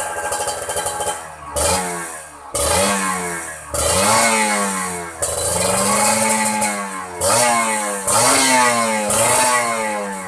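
Kawasaki Ninja 150 RR's two-stroke single-cylinder engine breathing through an aftermarket KDX exhaust, idling and then revved in about seven quick throttle blips, each rising and falling in pitch, one held longer in the middle.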